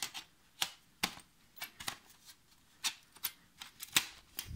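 Irregular sharp clicks and taps of small parts and tools being handled while putting a MacBook Pro's internal parts back together, the loudest click about four seconds in.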